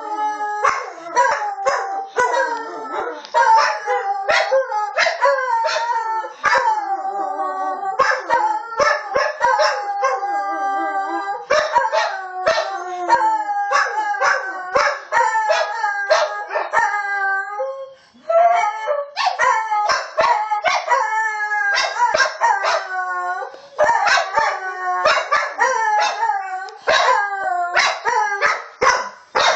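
Several dogs howling together, their calls overlapping at different pitches and sliding up and down, with short yips and barks cut in throughout. There is a brief pause about eighteen seconds in.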